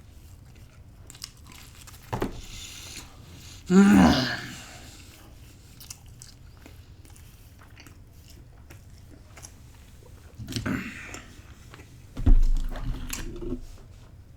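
A person biting and chewing pizza close to the microphone, with four louder spells of crunching and mouth noise. Two of them carry a short voiced sound.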